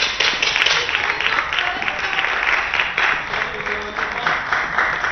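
Arena crowd clapping in a fast, steady rhythm of about four to five beats a second, with cheering voices, after a point in a table tennis match. It cuts off abruptly at the end.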